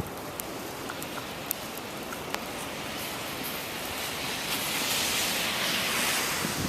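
Blizzard wind blowing steadily, with a gust swelling up about two-thirds of the way in and easing near the end, and a few faint ticks.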